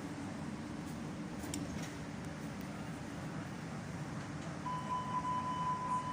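Hamburg U-Bahn DT4.5 subway train running, heard inside the car as a steady low rumble. About two thirds of the way in, a steady high-pitched whistle from the train's drive starts and holds.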